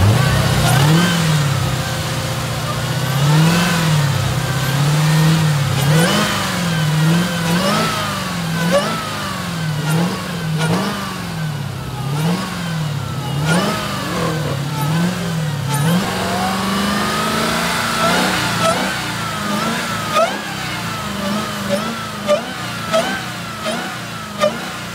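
Dodge Hellcat's supercharged Hemi V8 being revved over and over, its note rising and falling evenly about once a second. It is then held higher for a few seconds and ends in a run of short, sharp throttle blips.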